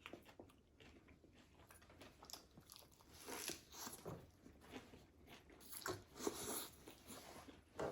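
Crunching bites and chewing of crispy fried food, in irregular crackly clusters.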